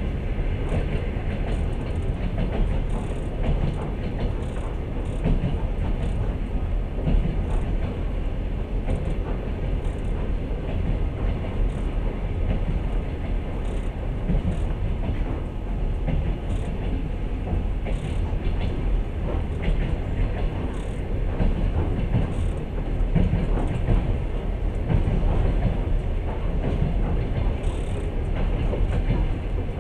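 Passenger train running along the track, heard from inside the carriage: a steady low rumble of the wheels and carriage, with faint light ticks now and then.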